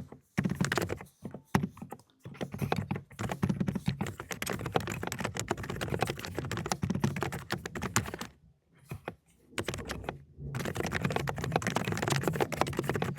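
Fast typing on an Aula ("독거미") mechanical keyboard with low-noise 'cotton candy' switches. The keystrokes come in quick, dense runs, broken by a few short pauses, the longest about eight seconds in.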